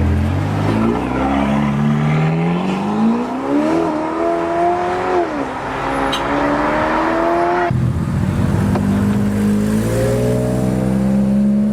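Sports car engine accelerating hard, its note rising steadily, dipping briefly at a gear change about five seconds in, then climbing again. Near eight seconds the sound switches abruptly to a lower engine note that climbs slowly as another pull-away.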